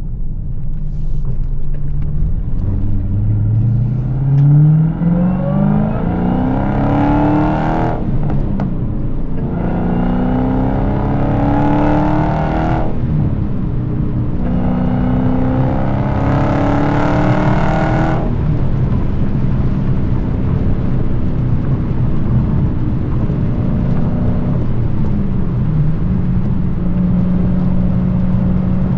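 Dodge Challenger SRT Hellcat's supercharged Hemi V8, its active exhaust valves deleted, accelerating hard through the gears of its six-speed manual. It makes three rising pulls, each broken off briefly at an upshift. After the third pull it lifts off and settles into a steady cruise.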